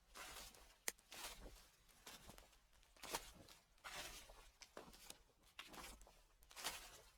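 Footsteps crunching through dry fallen leaves, about one step a second, with a single sharp click about a second in.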